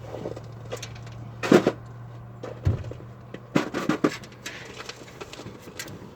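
Sharp metallic clinks and knocks of hand tools and a head bolt being handled on an engine, struck several times at irregular intervals, over a low steady hum that stops about two and a half seconds in.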